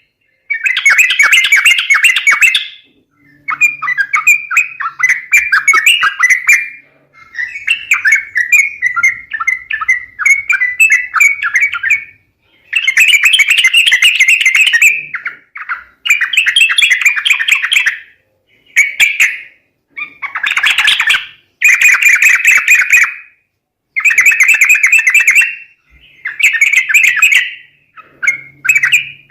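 Yellow-vented bulbul (trucuk) calls used as a bird-trapping lure: loud bubbly chattering phrases, each about one to three seconds long, repeated over and over with short pauses.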